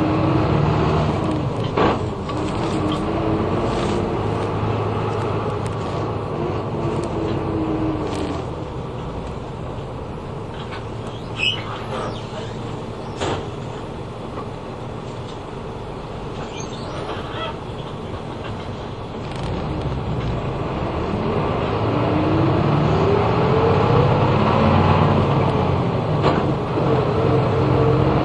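Route bus's diesel engine heard from inside the cabin while driving. The engine note rises, drops back about eight seconds in and runs quieter for a while, then climbs again and grows louder from about twenty seconds. A few short knocks or rattles come through now and then.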